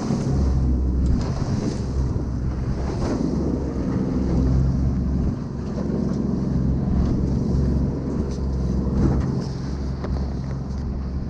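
A boat's motor running steadily under heavy wind noise on the microphone, with water splashing in rough swell and scattered knocks.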